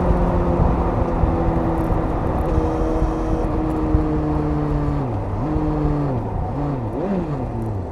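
Suzuki GSX-S750 inline-four engine on its stock exhaust, the note slowly dropping in pitch as the revs come down, then from about five seconds in the revs swing up and down several times in quick throttle blips.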